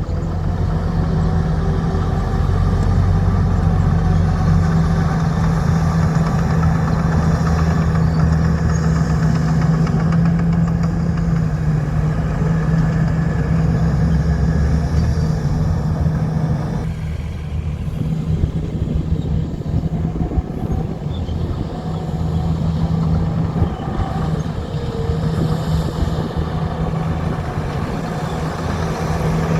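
Heavy diesel earthmoving engine running steadily, its sound easing off a little about 17 seconds in.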